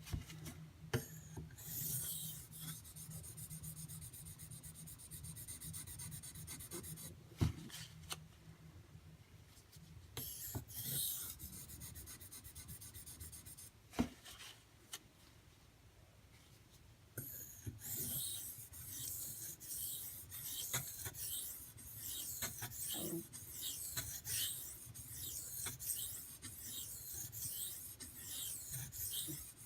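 D2 steel knife blade being stroked across an Arkansas water stone, a rasping scrape of steel on wet stone. Two sharp clicks come partway through, then a short lull, then a run of short, evenly repeated strokes.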